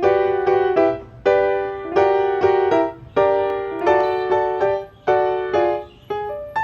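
Background piano music: gentle chords struck in short phrases about a second apart, each note dying away.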